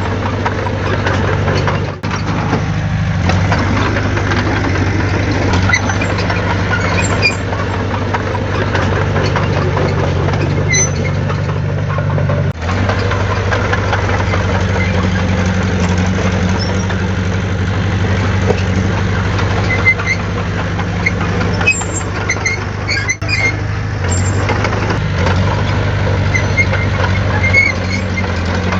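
Heavy diesel earthmoving equipment running steadily, a continuous low engine drone with brief dips about 2, 12 and 23 seconds in.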